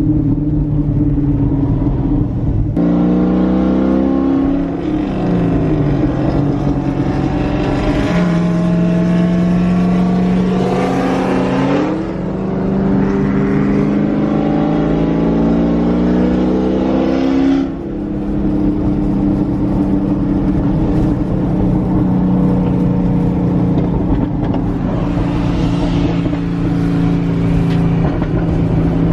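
Loud muscle-car engines and exhausts running and revving, their pitch climbing and dropping as they accelerate and ease off. The sound breaks off abruptly twice, as if cut from one car clip to the next.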